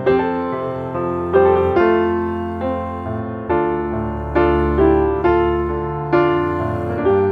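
Background piano music: slow chords and notes struck one after another, each ringing and fading before the next.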